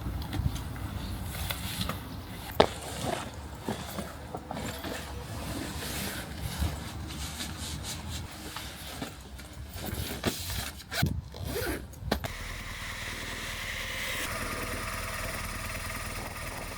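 Zipping, scraping and knocking of motorcycle gear being handled, with sharp clicks. About twelve seconds in, a motorcycle engine starts and settles into a steady idle.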